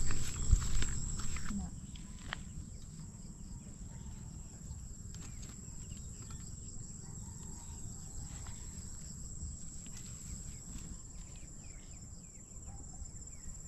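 Crickets or other insects trilling steadily in a rural outdoor background, with faint short chirps. A few knocks and footstep-like thumps come in the first second and a half.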